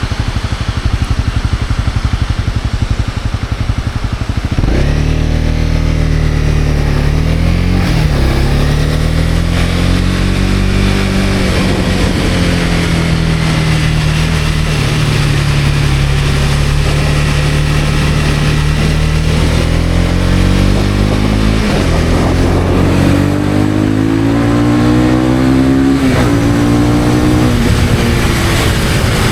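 Honda CB250R's single-cylinder engine ticking over low for the first few seconds, then pulling away about five seconds in: the engine note climbs, drops at each upshift, holds steady while cruising, and climbs again through two more shifts near the end.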